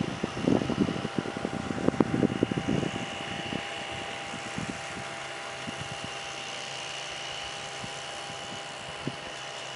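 A passing train led by an E10 electric locomotive: a quick run of wheel clacks over the rail joints for about three seconds, then a steady hum with a faint high whine.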